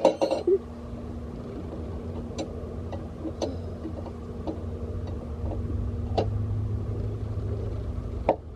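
A car jack being cranked by hand, its handle and screw giving off scattered metallic clicks, over a steady low vehicle rumble and hum.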